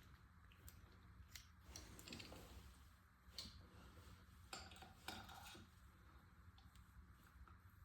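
Faint, scattered metallic clicks and scrapes of a thread tap being turned by hand into a freshly drilled hole in an engine block, cutting threads for an 8mm timing-guide pivot pin. The clicks come at irregular moments, with a small cluster around the middle.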